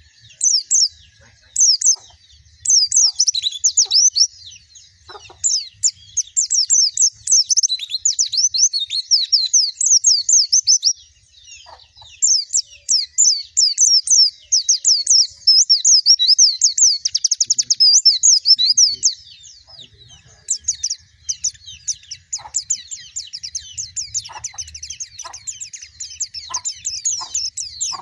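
White-eye (pleci) singing: long runs of rapid, high chirping notes, each sliding downward. The runs last several seconds, with short pauses between them.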